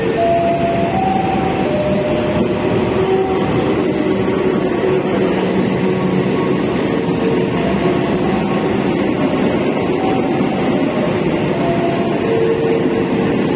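Passenger train running past: the diesel locomotive, then its coaches rolling by on the rails in a steady, loud rumble. Short squealing tones at changing pitches come and go over it.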